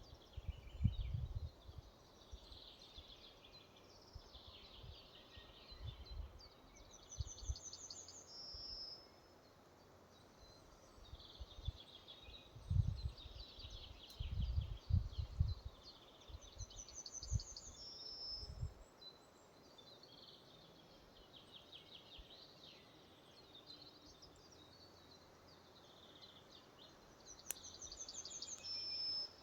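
Forest songbirds singing, one bird repeating the same short song, a run of notes ending in a brief high flourish, about every ten seconds. Low, uneven rumbles come and go during the first two-thirds.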